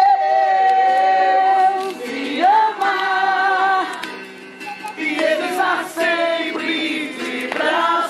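Group of voices singing a Portuguese worship chorus, with a long held note for about the first two seconds, then shorter sung phrases.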